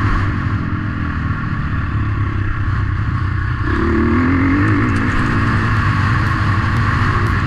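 Motocross motorcycle engines running over a steady low rumble, with one engine revving up and down about four seconds in.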